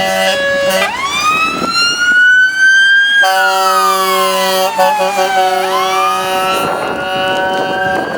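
Fire engine warning equipment: two-tone horns alternating between two notes, then a siren winding up in a long rising wail and falling away while a steady horn chord sounds. The siren winds up again near the end.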